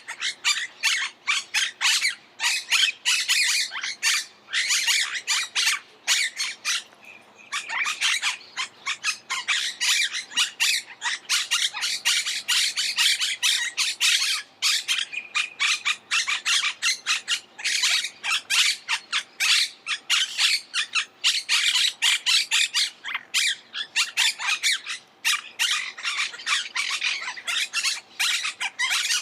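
Monk parakeets squawking in a fast, continuous chatter of short harsh calls, overlapping with hardly a pause.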